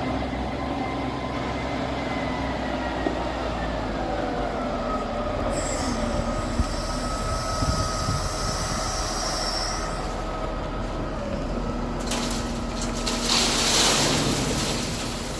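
Heavy equipment running with a steady drone and a whine that slides down in pitch about four seconds in. A high squeal joins from about five to ten seconds in. A loud hissing rush builds near the end and fades.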